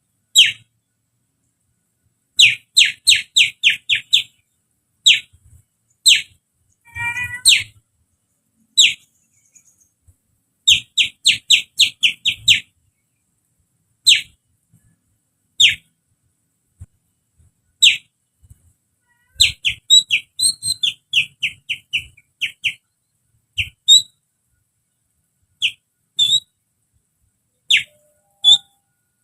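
A person whistling through the fingers to imitate a sooty-headed bulbul (kutilang): short, piercing notes that drop sharply in pitch, given in quick runs of four to six and as single notes between pauses. About seven seconds in comes a lower, wavering warble.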